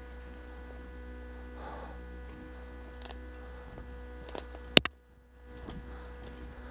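A steady electrical hum with a few scattered clicks, one of them a sharp, loud click a little over halfway through.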